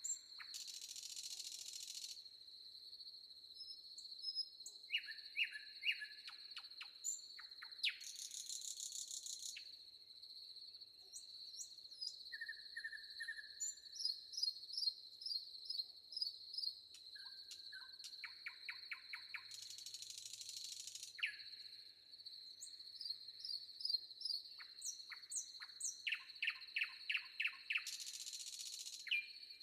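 Forest ambience: a steady high insect trill runs throughout while birds call in short, quickly repeated notes. Four times, a brief hissing buzz rises over it for a second or so.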